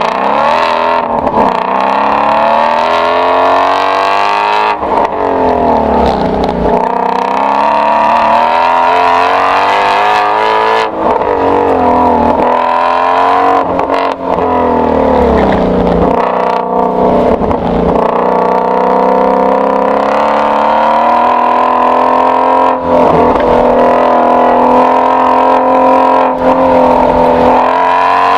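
2016 Shelby GT350's 5.2-litre flat-plane-crank V8 exhaust under hard autocross driving: the engine climbs in pitch under acceleration, then drops on lift-off and braking, over and over with brief dips between.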